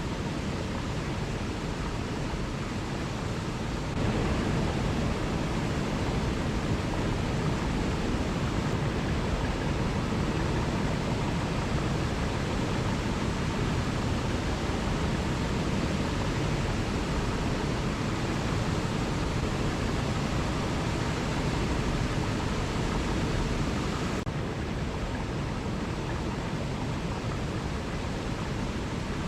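Waterfall: a steady rush of falling water, stepping up louder about four seconds in and dropping back a little about five seconds before the end.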